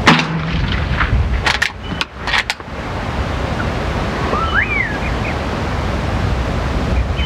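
.22 LR rifle shot at the start, followed by a few sharp metallic clicks a second or two later as the action is cycled. Steady wind noise runs throughout, with a short bird chirp near the middle.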